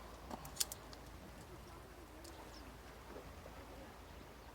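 Faint low cooing of a bird, a few soft wavering calls, over quiet outdoor background, with two sharp clicks about half a second in.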